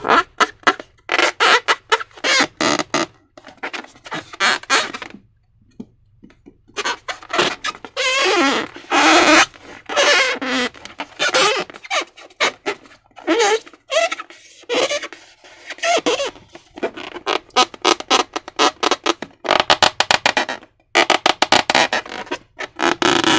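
Slime being squeezed and worked by hand with balloons: a long run of irregular wet clicks, pops and squelches, with longer squishing, air-pushing smears among them.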